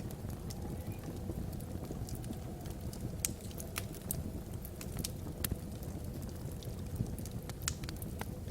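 Wood fire burning in a fireplace: irregular sharp crackles and pops, a few of them louder, over a steady low rumble.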